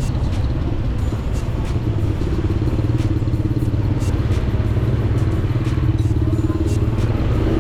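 Motorcycle engine running steadily under way, a constant low drone.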